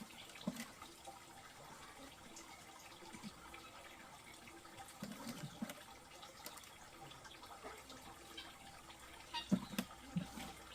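Faint water splashing and trickling, with scattered light knocks and clicks; a cluster of louder knocks comes near the end.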